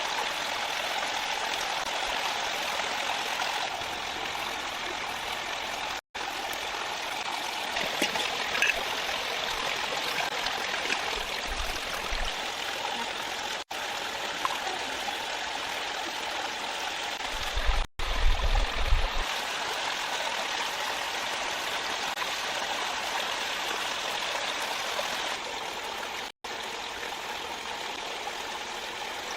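Steady rushing flow of water in a stream, broken by a few sudden momentary cut-outs. There is a brief low rumble a little before the middle and again just past it.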